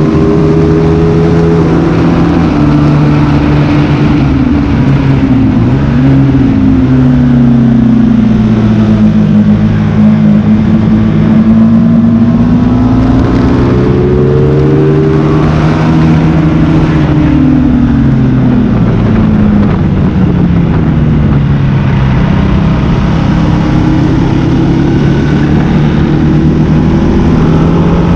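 Motorcycle engine heard on board at track speed, its pitch rising and falling slowly as the bike accelerates and slows through the corners, over steady wind rush.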